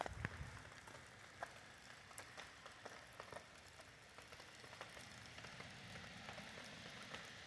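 Faint steady rain, with scattered drops ticking sharply.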